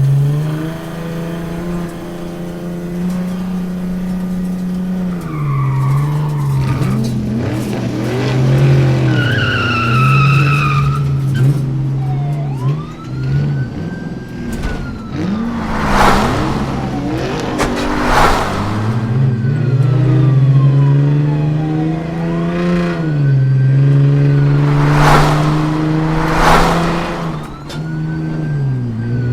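Dubbed car-chase sound effects: a car engine running and revving, its pitch dropping and climbing again several times, with tyres squealing for a few seconds early on. A police siren wails in slow rises and falls, and four short sharp noisy bursts come in the second half.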